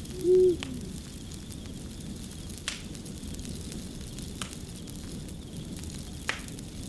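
Wood fire crackling steadily, with a few sharp pops. Just after the start comes a single short owl hoot with a falling tail, the loudest sound.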